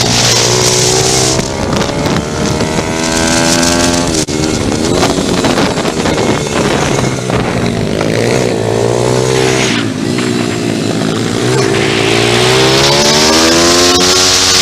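Pit bike engine revving hard and easing off. The pitch climbs steadily, then drops sharply about four seconds in, again near ten seconds, and once more at the end, with a rushing hiss over it at times.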